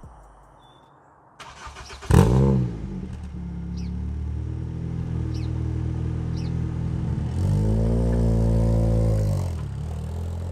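Ford Fiesta ST150's 2.0-litre four-cylinder cold-starting through a decatted Scorpion exhaust. The starter cranks briefly about a second and a half in, and the engine catches with a loud flare, then settles to a steady cold idle. Near the end it is revved up and held for about two seconds before dropping back to idle.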